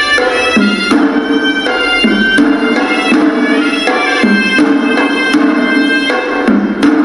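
Hewisi temple music: a horanewa, the shrill Sri Lankan double-reed shawm, plays a melody over traditional Sri Lankan drums. A few heavier drum strokes stand out.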